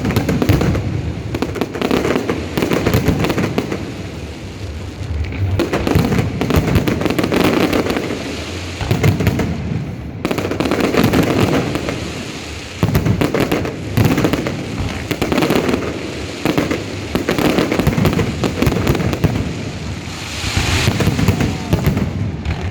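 Aerial fireworks display: a dense, continuous barrage of bangs and crackling that swells and eases every couple of seconds.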